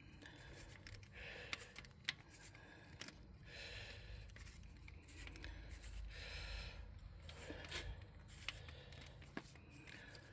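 Faint scattered clicks and soft scraping of metal hand tools, a wrench and a magnet pickup, working a carburetor mounting nut loose.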